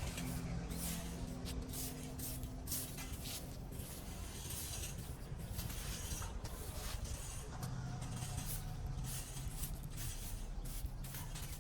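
Irregular scraping and rustling strokes, many a second, over a low steady hum.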